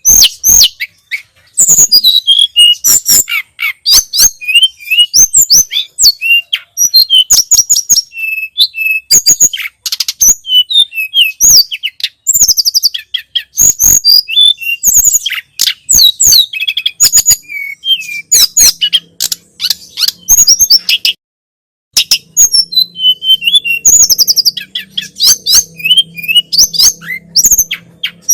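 Tledekan gunung (sulingan gunung) songbird singing continuously in rapid runs of high, clear whistles and chirps, with a brief pause about 21 seconds in.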